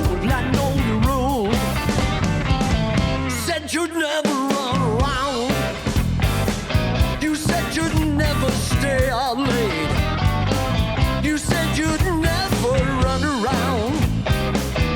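Blues band playing live, with bass and drums under a lead line that bends and wavers in pitch. The low end drops out briefly about four seconds in.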